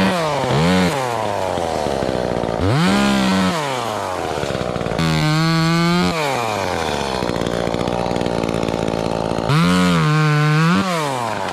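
Two-stroke chainsaw cutting wood, its engine revving up and falling back about four times, with a steadier lower pitch between the rises.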